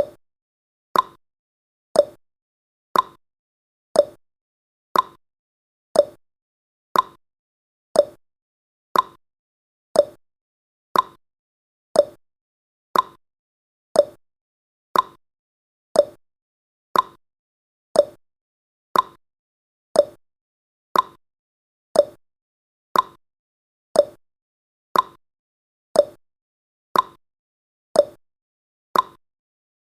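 Ticking sound effect of a countdown timer: one short, sharp tick every second, evenly spaced.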